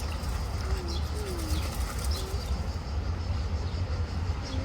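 Pigeons cooing in a few low, wavering calls, with short high chirps from small birds, over a steady low rumble.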